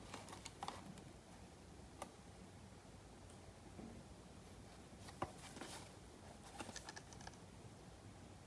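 Faint clicks, taps and rustles of a trading-card box and its packaging being handled, coming in a few short clusters, with the sharpest tap about five seconds in.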